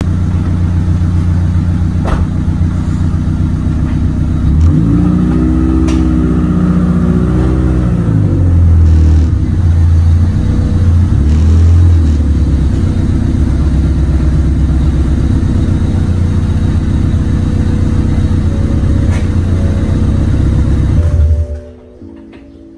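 Honda Civic EG hatchback's engine running at idle, heard from the exhaust at the rear, revved up and back down twice in the first half: a longer rev about five seconds in and a shorter one around eleven seconds. The sound cuts off suddenly about a second before the end.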